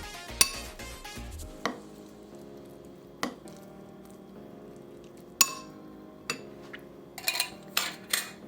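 Kitchen utensils clinking and knocking against dishes in a scattered series of sharp clinks, several in quick succession near the end, over soft background music.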